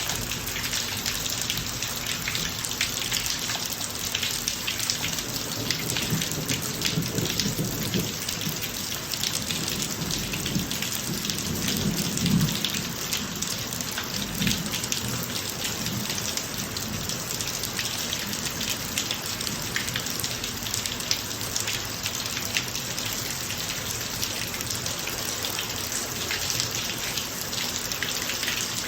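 Steady rain falling on a driveway, a dense patter of drops. A low rumble of thunder swells up about a third of the way in, peaks near the middle and fades over several seconds.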